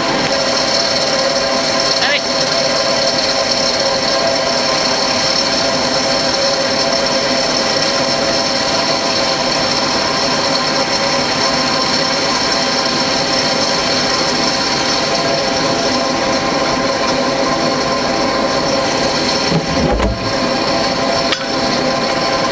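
Electric motor running steadily at constant speed, with a high, even whine and a few brief dips in level.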